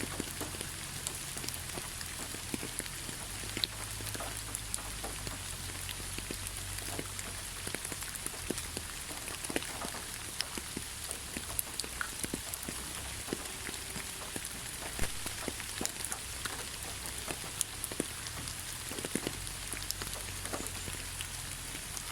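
Heavy rain falling steadily: a dense, even hiss with many scattered individual drop splats ticking through it.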